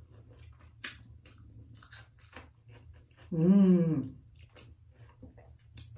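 A person chewing deep-fried spicy tuna sushi roll with soft, wet, clicking mouth sounds. About halfway through there is a brief voiced hum.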